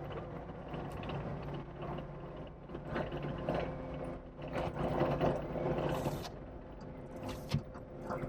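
An engine running steadily, with irregular crunches and clicks over it.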